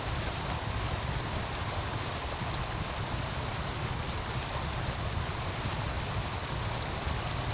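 Wood fire crackling, with scattered sharp pops, over the steady rush of a meltwater stream.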